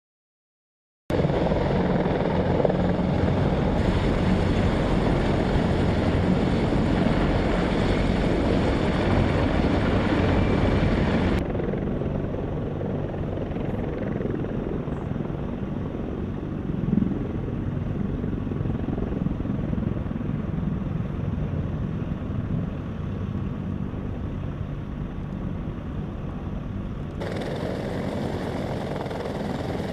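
Military aircraft running on an airfield, a loud steady engine and rotor noise. It starts abruptly after a second of silence, then changes suddenly about eleven seconds in, becoming duller, and again near the end, as the shots change.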